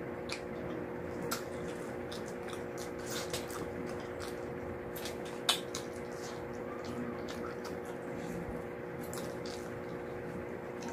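Close-up eating sounds: wet chewing and mouth smacks as fried dried milkfish and rice are eaten by hand, with many small clicks and one sharper click about five and a half seconds in. A steady hum runs underneath.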